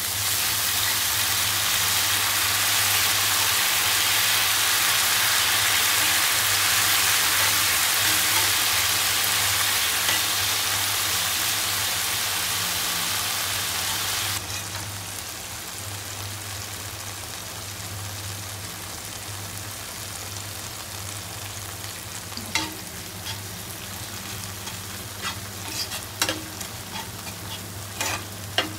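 Spice paste frying in hot oil with water just added, sizzling loudly while a metal spatula stirs it. About halfway through the sizzle drops suddenly to a quieter hiss. Near the end come a few sharp scrapes and taps of the spatula on the pan.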